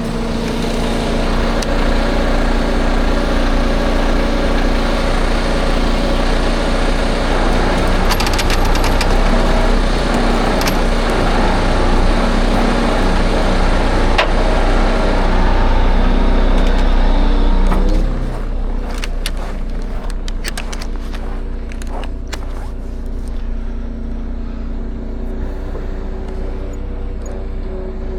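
Heavy timber truck's diesel engine running with a steady low drone. About eighteen seconds in it eases off and gets quieter, with a few light clicks and knocks after.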